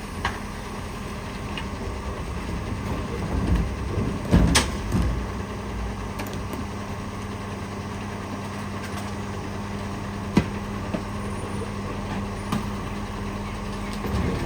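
Bulk waste garbage truck running at idle with a steady hum. A loud clunk with a short rumble comes about four and a half seconds in, and a few sharp clicks are scattered through.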